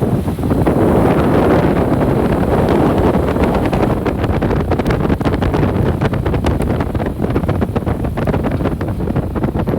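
Heavy wind buffeting the microphone over the noise of a moving off-road vehicle. From about four seconds in, a rapid patter of clicks and knocks joins it.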